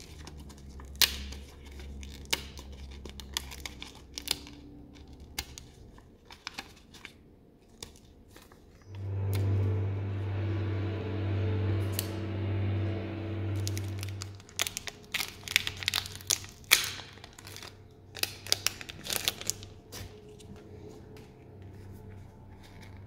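Plastic and paper packaging being handled and torn open, with a run of short crinkles and rustles. About nine seconds in, a steady low hum starts and lasts about five seconds, the loudest part, before the crinkling and tearing resume.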